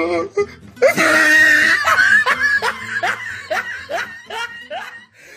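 A person laughing: a loud outburst about a second in, then a run of short rising "ha" strokes that slowly fade out, over faint background music.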